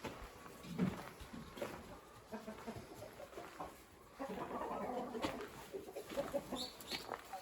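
Free-range chickens clucking: many short, scattered calls from a small flock, busier from about four seconds in.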